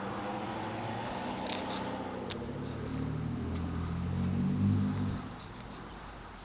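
A motor vehicle engine running, its pitch dropping and its level rising after about three seconds, loudest near five seconds, then fading out. A couple of light clicks about one and a half and two and a half seconds in.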